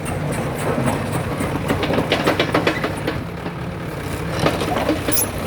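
Hydraulic excavator's diesel engine running steadily, with a run of rattling clicks and clanks about two seconds in and again near the end.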